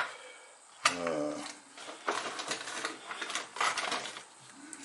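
Irregular light clicks and rattles of small objects being handled on a workbench, with a brief voice sound about a second in.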